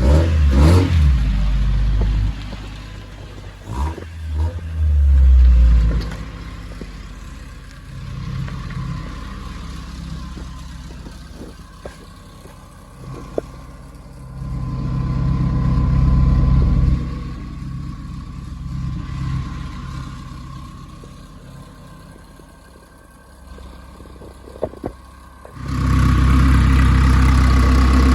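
Car engine revving in several surges, the first with a quick rise in pitch. Near the end a loud, steady engine sound sets in suddenly.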